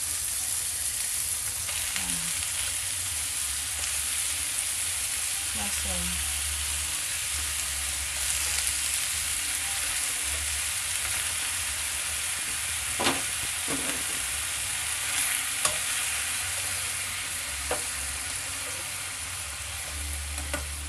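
Shrimp and oyster mushrooms sizzling steadily in a frying pan with oil and cream. A spatula stirs them, knocking against the pan a few times in the second half.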